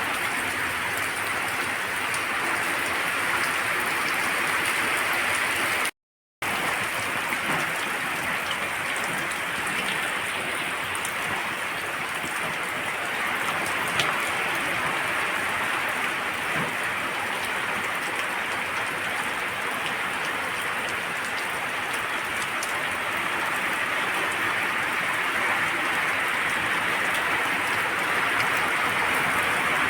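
Steady rain falling, an even hiss with a brief break to silence about six seconds in.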